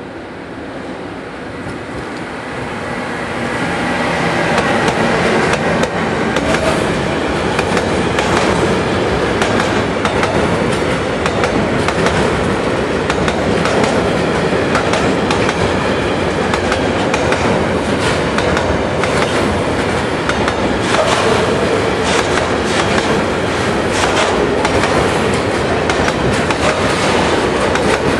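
Freight train of tank wagons hauled by an electric locomotive passing at close range, getting louder over the first few seconds as it draws near. The wagon wheels then run past in a steady rumble, with rapid clicks over the rail joints and faint wheel squeal.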